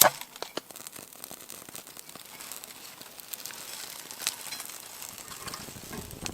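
Small sticks burning in a wood-burning stick stove, crackling steadily with many small pops, after a sharp click at the very start.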